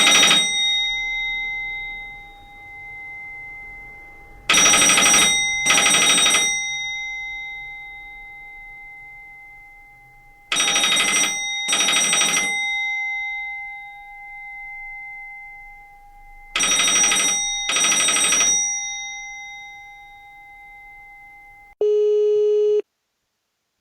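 Telephone bell ringing in a double-ring pattern: pairs of rings about a second apart, repeating roughly every six seconds, the bell tone fading on between pairs. Near the end a steady low telephone tone sounds for about a second and cuts off.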